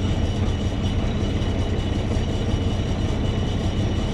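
Heavy vehicle engine running steadily with a continuous low rumble.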